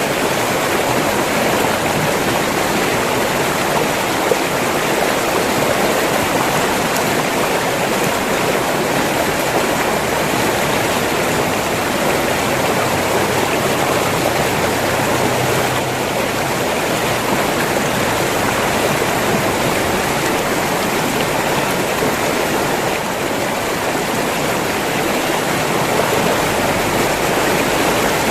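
River water rushing and splashing steadily over rocks, a continuous even flow.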